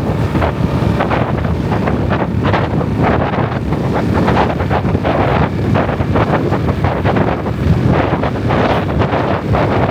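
Wind buffeting the microphone on a moving motorbike: a loud, steady rush with irregular gusty surges.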